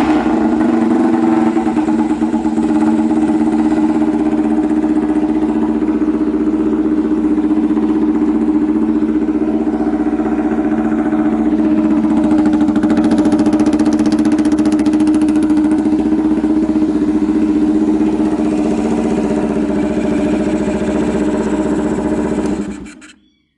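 Honda CB250RS-Z single-cylinder four-stroke motorcycle engine running at a steady idle through a hand-bent full exhaust system. The builder judges it to be running well, with no abnormal noise. The engine stops near the end.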